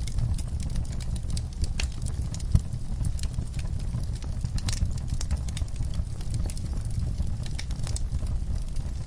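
Wood fire burning in a fireplace: a steady low rumble with scattered crackles and pops, and one sharper pop about two and a half seconds in.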